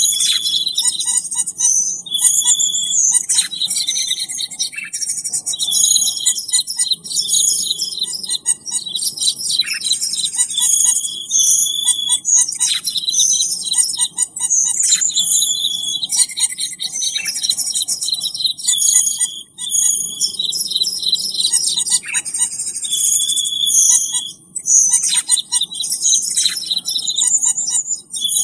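Cucak keling birdsong played as a bird-lure (pikat) recording: dense, fast chirping and trilling phrases that repeat every few seconds, with short falling whistled notes among them.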